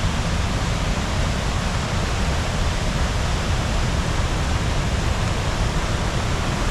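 Storm-swollen river whitewater rushing: a steady, even wash of noise with a heavy low rumble.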